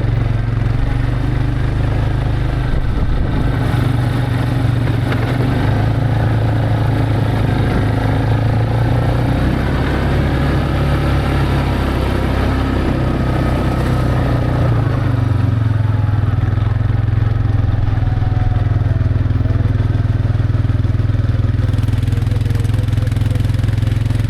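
A vehicle engine running steadily while being driven, its pitch shifting slightly about halfway through.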